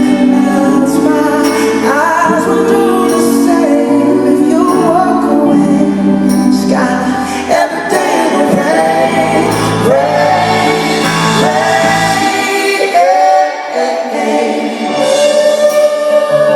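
Live pop ballad performance: a band plays sustained chords under a singer's drawn-out, gliding vocal runs. The low bass drops out about thirteen seconds in, then the singing carries on over the lighter accompaniment.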